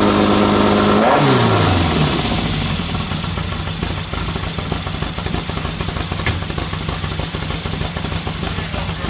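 1974 Volkswagen Super Beetle's air-cooled flat-four engine held at high revs, then dropping back sharply about a second in and settling into a steady idle.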